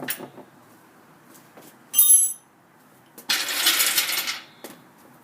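A metal hand tool clinking with a short ringing tone about two seconds in, then about a second of loud scraping, rustling noise from the work on the car.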